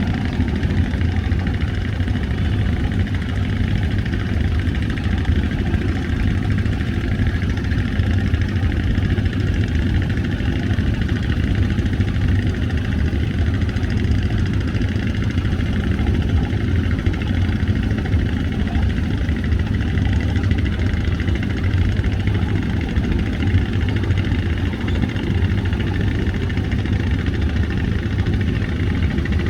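Fast passenger ferry's engines running steadily, a loud, even low drone that does not change.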